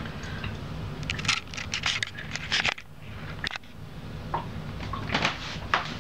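Clicks and scrapes from hands working a reptile humidifier to switch it on, in two bursts, over a steady low hum.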